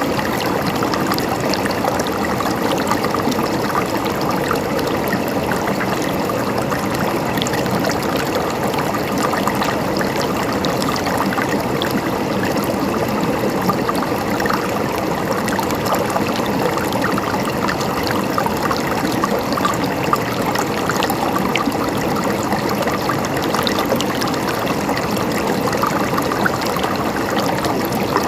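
A river or stream flowing steadily over rocks, a continuous rush of water with small splashes and trickles.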